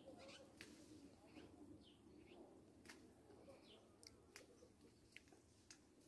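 Near silence, with faint, scattered short bird chirps.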